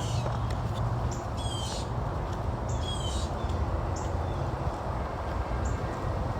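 A bird giving harsh, scratchy calls about every one and a half seconds, with shorter single notes between them, over a steady low background rumble.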